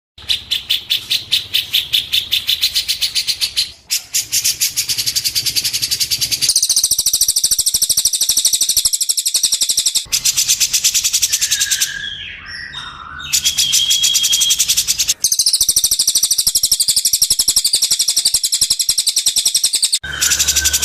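Songbird song played as masteran training audio: fast, dry chattering trills of many notes a second, high-pitched, in blocks that change abruptly every few seconds. There are a few short clear whistles in the middle.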